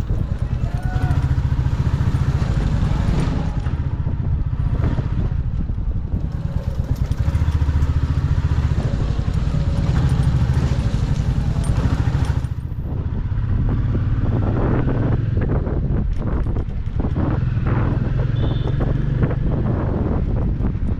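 Motorcycle running under way, its engine a low steady drone with wind rushing over the microphone. The sound dips briefly about twelve seconds in.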